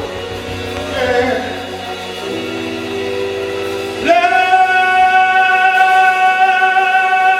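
Live gospel singing: after a short sung phrase over a held chord, a singer slides up into a long high note with vibrato about four seconds in and sustains it.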